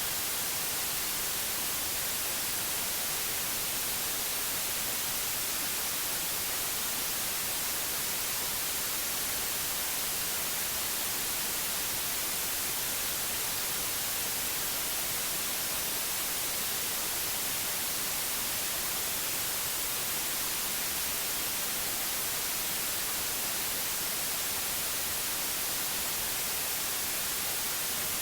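Steady synthetic white noise, an even unbroken hiss strongest in the high frequencies, with no change in level.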